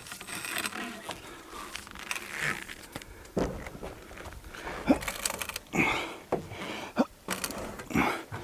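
Irregular knocks, scrapes and clunks of a log being turned by hand on a sawmill bed.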